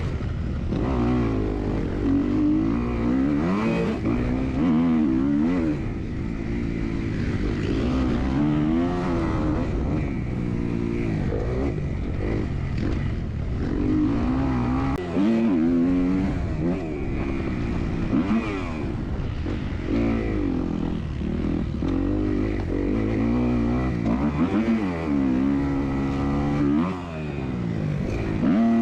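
Motocross dirt bikes racing, several engines revving up and falling away again and again with overlapping pitches.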